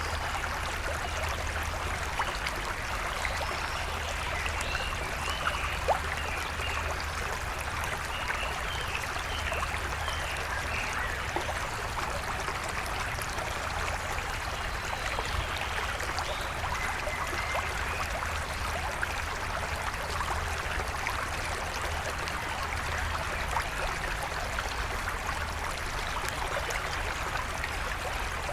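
A stream flowing steadily, an even rush of running water, with faint short bird calls now and then.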